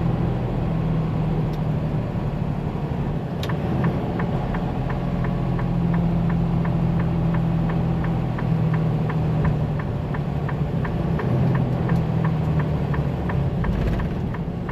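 Truck engine running steadily, heard from inside the cab. A single click comes about three and a half seconds in, then a turn signal ticks evenly about three times a second.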